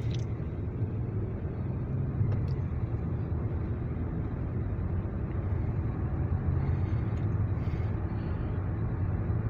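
Steady low engine rumble from a motor vehicle.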